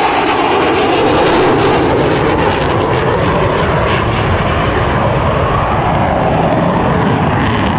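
Mirage 2000D fighter's SNECMA M53 turbofan running loud in flight, a steady jet rumble and hiss with a slight drift in pitch.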